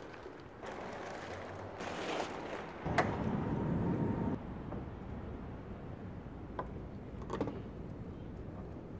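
Plastic wrapping rustling as a new car front bumper is unwrapped, then a low rumble for about a second and a half. A few sharp plastic clicks and knocks follow as the bumper is handled against the car's front end.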